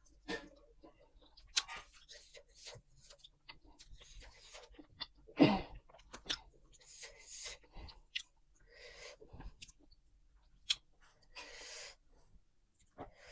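A person eating close to the microphone: chewing, with scattered small clicks and rustles, the loudest burst about five and a half seconds in.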